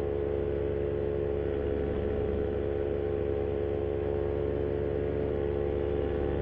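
Paramotor's Moster 185 single-cylinder two-stroke engine and propeller running steadily at cruise power in flight, an even drone. The propeller's blade tips are damaged and repaired, and the pilot says it is not running as smoothly as before.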